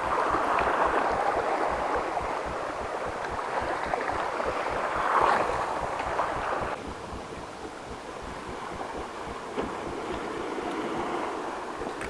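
Sea waves washing against shoreline rocks, a steady swash that swells and ebbs, with a louder surge about five seconds in. Wind buffets the microphone.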